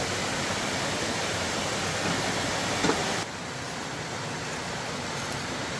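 Steady hiss of rushing water, dropping slightly in level a little over three seconds in.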